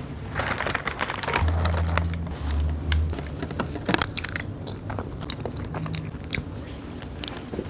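Close-up eating of a fast-food burger: biting and chewing, with many crunchy clicks and crackles in the mouth. A low hum sounds from about a second and a half in, for about a second and a half.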